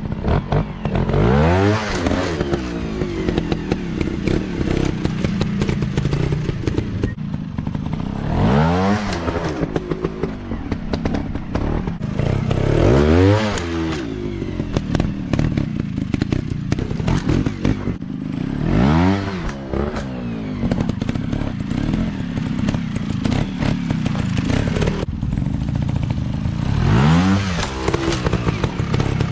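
Motocross dirt bike engines revving up and dropping back, in about five separate swells, over a steady running engine.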